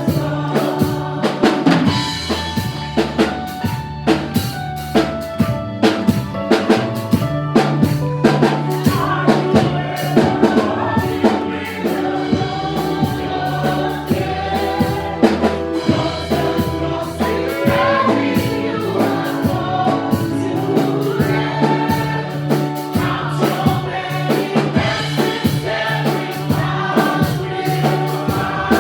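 Gospel praise-and-worship music: voices singing together over a band with a steady drum kit beat and a sustained bass line.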